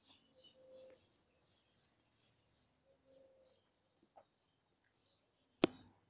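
Small birds chirping in quick, repeated short notes, about three a second, with one sharp click near the end.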